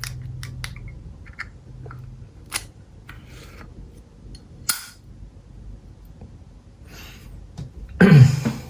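Vintage 1971 Zippo lighter being handled: a run of sharp metallic clicks from its hinged lid snapping open and shut, the strongest a little under halfway through, then a short, louder rasp near the end.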